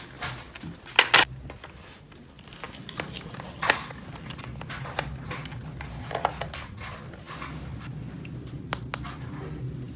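Small plastic toy pieces being handled and set down: a handful of sharp clicks and taps, two close together about a second in and others scattered later, over a faint steady low hum.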